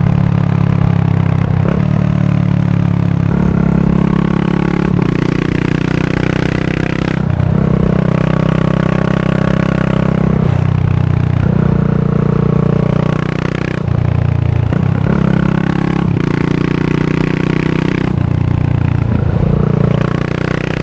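Yamaha SR400's single-cylinder engine running through a Goods tapered-cone slip-on muffler while being ridden. The revs hold, then step up and down every few seconds as the bike goes through the gears, with a falling drop near the end.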